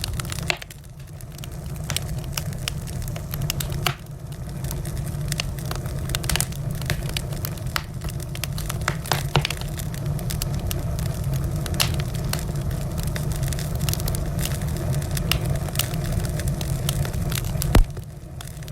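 Wood fire burning in a fireplace: many sharp crackles and pops over a steady low rumble, with one loud pop near the end.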